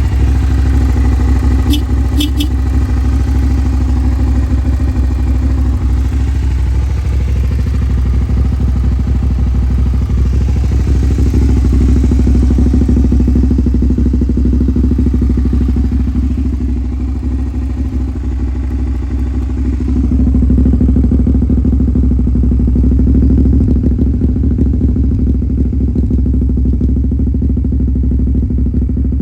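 Suzuki SV400S's carbureted V-twin engine running steadily through a KENZ SPORTS aftermarket muffler, its level dipping slightly past the middle and rising again.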